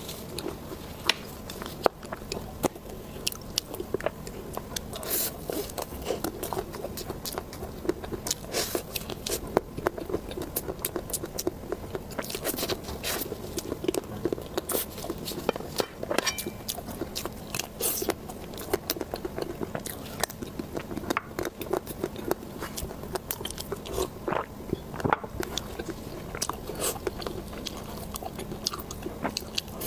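Close-miked crunchy eating: irregular crisp bites and crackling chews, with softer mouth-chewing sounds between them.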